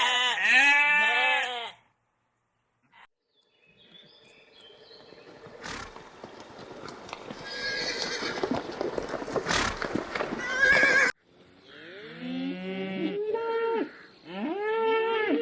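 A sequence of farm animal calls. First, bleating for about two seconds, which stops short. After a brief silence comes a noisier, rising stretch of farmyard sound. From about eleven seconds in there is a run of repeated honking calls.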